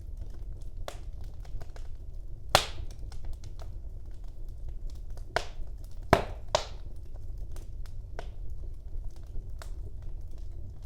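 Wood fire burning in a fireplace: a low steady rumble of flames with scattered crackles and pops, the loudest sharp snaps about two and a half and six seconds in.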